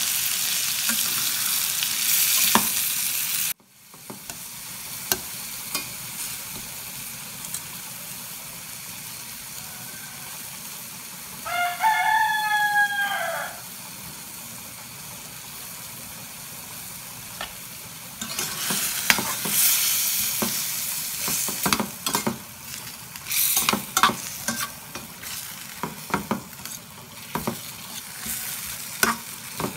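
Chopped chicken liver and gizzards sizzling in a stainless steel frying pan while a metal spatula stirs and scrapes them, the strokes coming in quick clusters in the last ten seconds. The sizzle drops quieter about four seconds in, and a rooster crows once, for about two seconds, near the middle.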